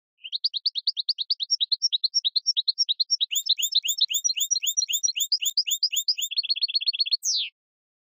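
Songbird song: a long, fast run of high chirps, about eight a second, that speeds up near the end and finishes with a single downward-sweeping note.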